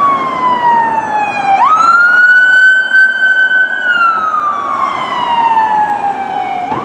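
Toy police car's electronic siren wailing: a pitched tone that falls slowly, jumps quickly back up about one and a half seconds in, holds, falls slowly again, and starts to rise near the end.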